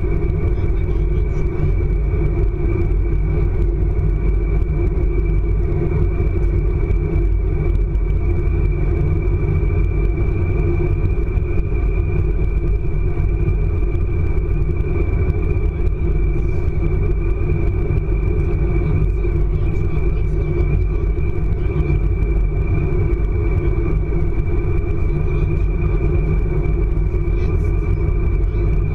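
ICE high-speed train running at speed, heard from inside the carriage: a steady, loud rumble with a thin high whine held level above it.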